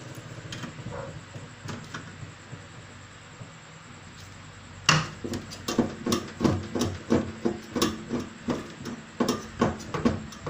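Knocking and clicking of tools and metal parts as a microwave oven's high-voltage parts are being refitted. Faint at first, then from about halfway a sharp knock starts a run of irregular knocks, about two to three a second, each with a short ring.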